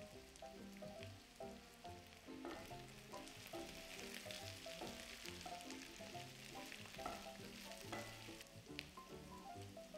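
Diced potatoes and carrots sizzling in a cast-iron skillet, the sizzle growing as a wooden spoon stirs them through the middle, with a few sharp knocks of the spoon against the pan.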